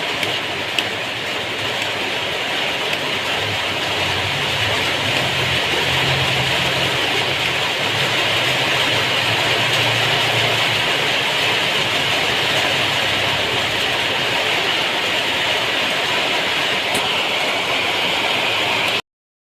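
Heavy rain pouring steadily, with a low hum underneath for several seconds in the middle. The sound cuts off suddenly near the end.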